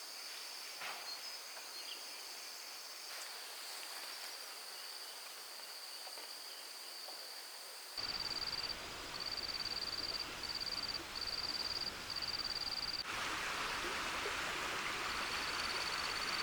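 Outdoor ambience of insects trilling at a steady high pitch. About halfway through it changes abruptly to a louder trill broken into short bursts over a background hiss, which grows stronger near the end.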